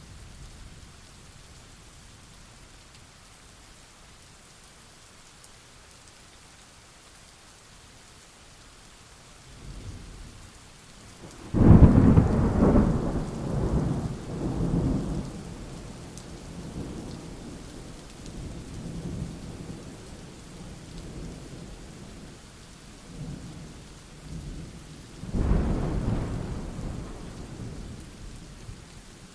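Thunderstorm: steady rain with rolling thunder. A first faint rumble comes about ten seconds in, then a loud sudden clap that rumbles on and fades over several seconds, and a second, weaker clap near the end.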